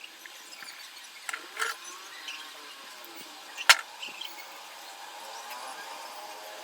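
A few light clicks, then one sharp, loud click about three and a half seconds in, over a faint steady background.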